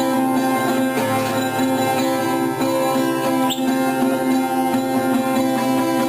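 Acoustic guitar music, plucked and strummed, with sustained chords. A brief, high, rising chirp sounds about three and a half seconds in.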